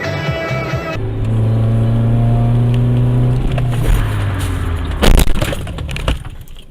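A car's steady low hum, then a loud crash impact about five seconds in, followed by a short rattle that dies away.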